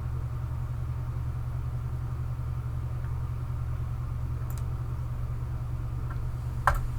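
Steady low hum with no change in pitch, and a single sharp click near the end.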